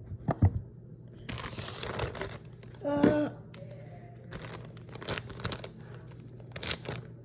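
Plastic packaging crinkling and tearing in several short bursts, with a brief pitched squeak about three seconds in.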